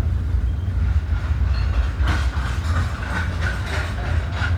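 Loaded coal hopper cars of a freight train rolling past with a steady low rumble of wheels on the rails. From about halfway there is a run of irregular clacks and clatter.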